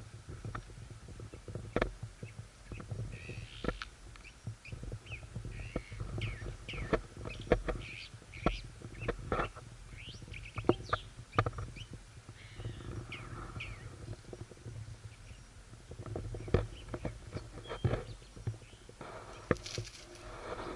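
Short, high animal chirps and squeaks, most frequent in the first half, mixed with scattered sharp clicks.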